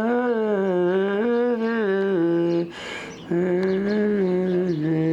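A person humming a slow, wavering tune in two long phrases, with a short pause for breath about three seconds in.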